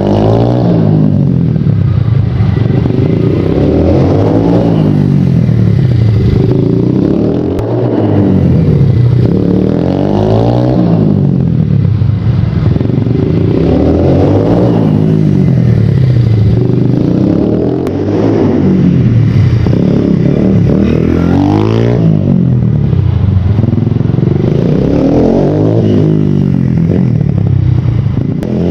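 Supermoto motorcycle engine being ridden hard, its pitch rising as it accelerates and dropping back as the throttle closes, over and over every two to three seconds.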